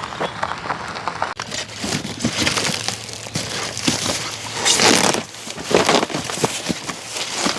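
Cardboard packaging being torn open and crumpled while unboxing, a run of irregular crunches, rustles and crackles, loudest just before the middle.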